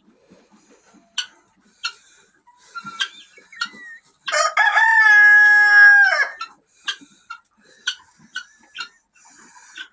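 A rooster crows once, a long loud call starting about four seconds in and lasting about two seconds, with short clucks before and after it.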